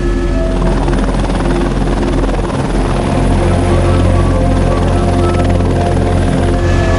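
Helicopter flying with a fast, steady rotor beat and engine hum, coming in about half a second in and easing off near the end, over background music.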